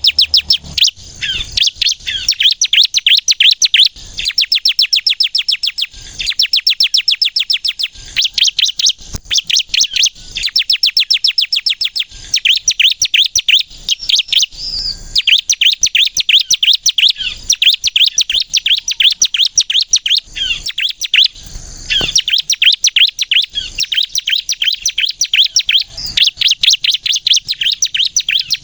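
Ciblek kristal, a prinia, singing nonstop. It gives rapid runs of high, sharp repeated notes, many to the second, in long bursts broken by brief pauses.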